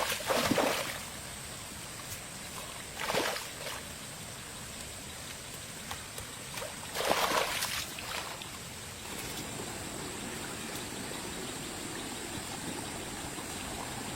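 Water splashing and sloshing in three short swells, near the start, about three seconds in and about seven seconds in, over a steady background hiss.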